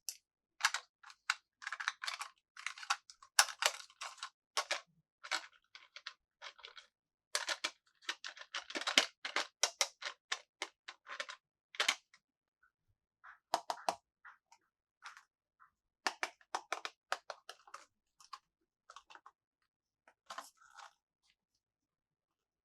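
Crinkling and clicking of plastic packaging being opened and handled by hand, in irregular clusters of short crackles that thin out near the end.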